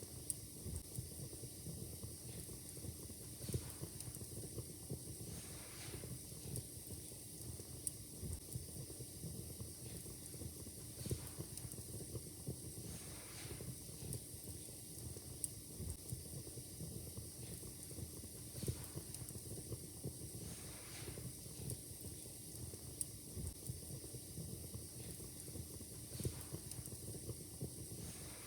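Wood fire crackling in a fireplace: a steady hiss under constant small snaps, with sharper pops every second or two.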